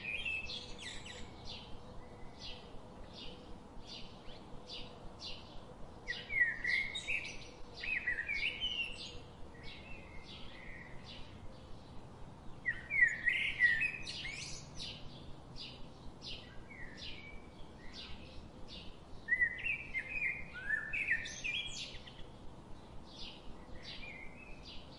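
Small birds chirping: a short chirp repeated about twice a second, with louder bursts of quick rising and falling twitters three times.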